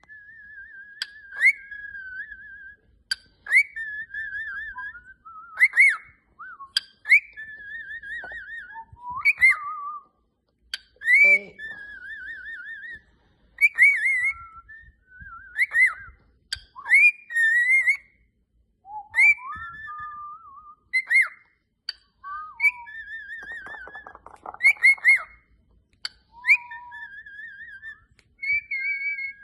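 Cockatiel whistling a song: repeated phrases of warbling whistles and sharp rising notes with short pauses between them, and a brief raspy chatter late on.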